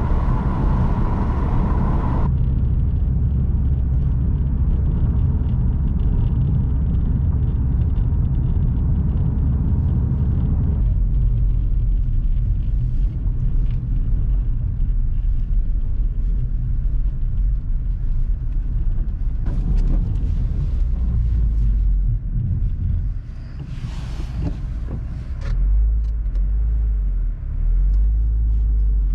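Subaru WRX driving, a steady low rumble of engine and road noise, with a few short clicks near the end.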